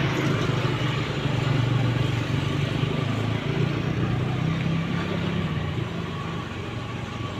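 Motorcycle engine running at a steady hum, with noise from riding.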